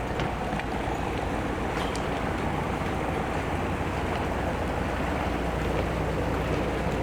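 Harbour boat's engine running steadily, a low even hum with no change in speed.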